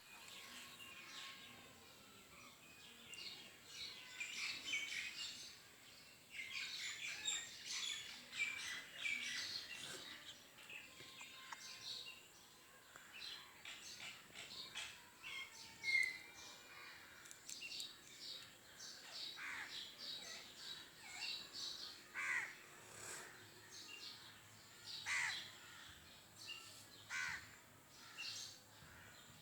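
Small parrots chattering and screeching together: many short, high, sharp calls overlapping without a break, with one sharp loudest call about halfway through.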